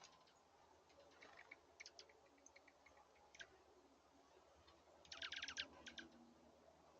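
Small birds at a feeder: scattered faint clicks and ticks, with a quick run of louder clicks about five seconds in.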